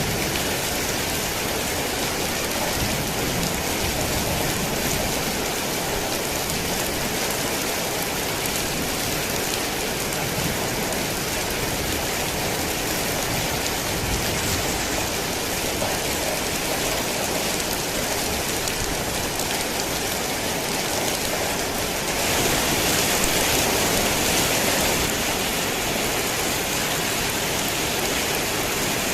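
Heavy rain falling steadily, a dense even hiss of drops, swelling briefly louder for a few seconds about three-quarters of the way through.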